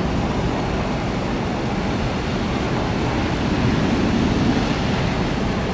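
Boeing 757's twin jet engines at takeoff power as the airliner climbs away, a steady jet noise that swells slightly about four seconds in.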